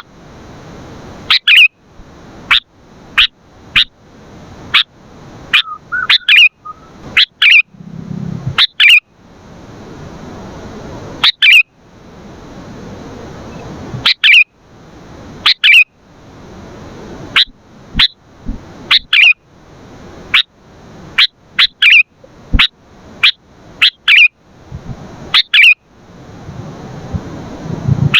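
Sooty-headed bulbul (kutilang) calling over and over in short, sharp, high chirps, often in quick clusters of two or three, about one burst every second.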